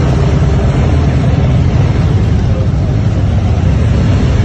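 Motorcycle riding at road speed: steady engine noise mixed with heavy wind rush on the microphone, loud and unbroken.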